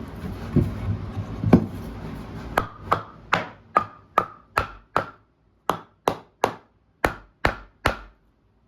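About a dozen sharp hammer blows in a steady rhythm, roughly two and a half a second with a couple of short pauses, each with a brief ring. They follow a few seconds of steady hiss with two duller knocks.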